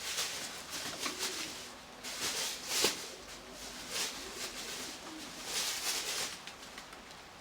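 Nikolaev pigeons cooing softly, with several short hissy rustles in between.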